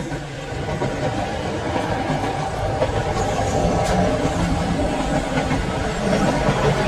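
Express train hauled by a WAP-4 electric locomotive running by on the rails, a steady rumble of wheels that slowly grows louder, with a sharp clack about four seconds in.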